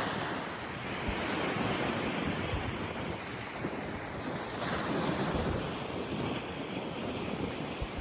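Ocean surf washing onto a beach, a steady rush that swells and eases, with wind buffeting the microphone.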